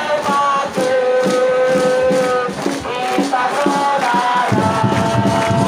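Stadium crowd of football supporters singing a chant together, with regular beats of percussion.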